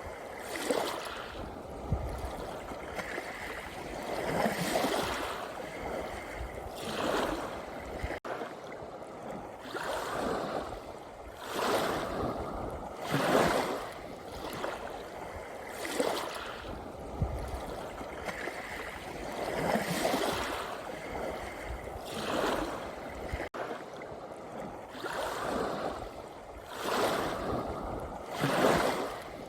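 Sea waves washing in, a rush of surf swelling and falling away every two to three seconds.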